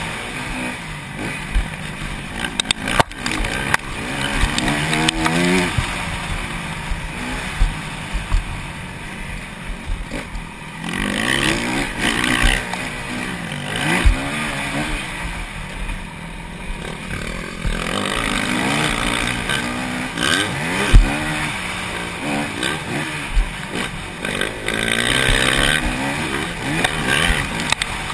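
250cc four-stroke single-cylinder motocross bikes racing: the engine revs climb and drop over and over as the riders shift and throttle through the track, with a few sharp thumps along the way.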